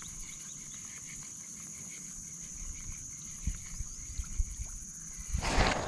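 Steady high buzz of insects with faint chirps, then a short, sudden splash at the water surface near the end, a fish striking at the topwater frog lure.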